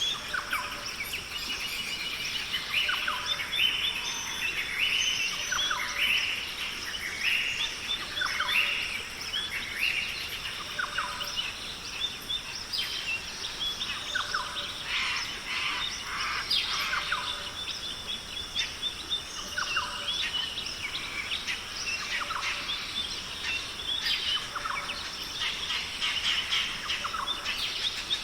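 Many birds calling at once, short chirps and calls overlapping densely, over a steady high-pitched drone.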